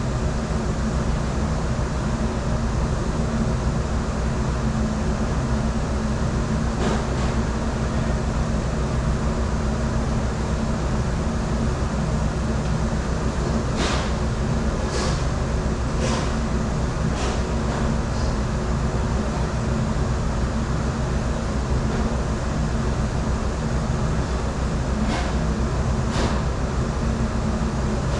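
Steady low mechanical rumble and hum of commercial dish-room machinery running, with a few short clatters in the middle and near the end.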